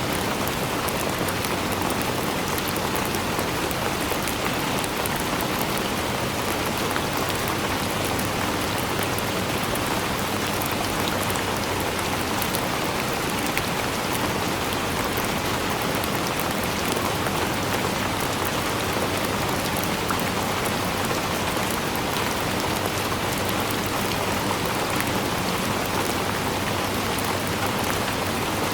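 Steady, dense rainfall with many small drop ticks on surfaces, even in level throughout.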